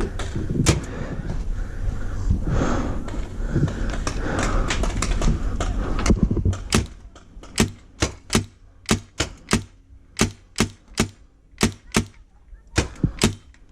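Magfed paintball marker firing a string of single shots, roughly two to three a second, from about six seconds in. Before that there is a low rumbling noise with a few scattered shots.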